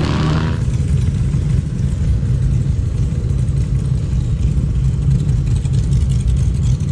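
Motorcycle engine running with a steady, low note.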